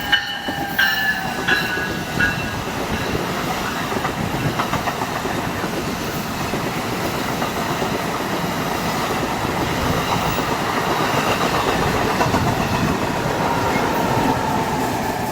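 Passenger train passing close by: a steady rumble with the clatter of wheels over rail joints.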